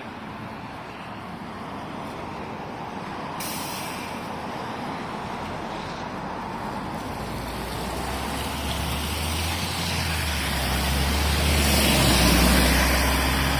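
LiAZ 6213.65 articulated city bus running, with engine and road noise building steadily. A low engine rumble grows stronger from about halfway through and is loudest near the end, as the bus gets under way.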